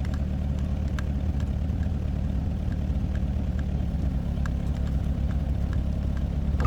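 Excavator's diesel engine idling steadily, with light scattered ticks over the low running sound.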